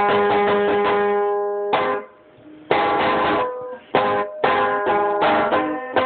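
A rebaba, a plucked string instrument, played in quick runs of ringing notes. The playing stops briefly about two seconds in, then starts again with strummed chords and more notes.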